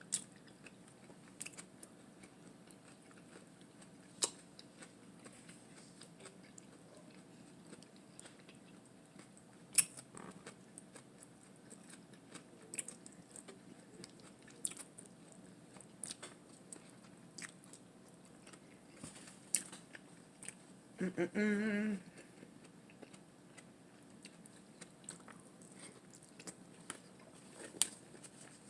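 Close-miked eating of a lettuce wrap with a hamburger patty: scattered bites and wet chewing clicks. A short hummed "mm" comes a little past two-thirds of the way through.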